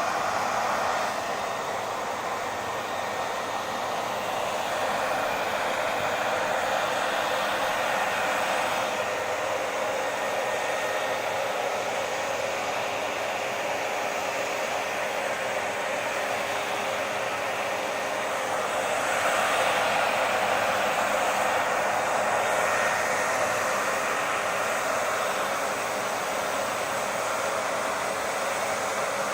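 Hair dryer running steadily, a continuous rushing of blown air with a faint motor whine, swelling slightly now and then.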